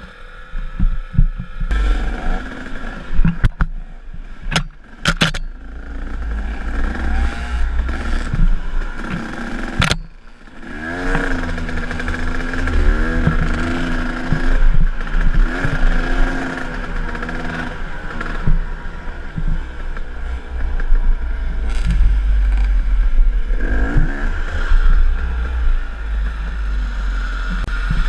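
KTM enduro dirt bike engine revving up and down with the throttle, with sharp knocks and clatter from the bike a few seconds in and again near the middle.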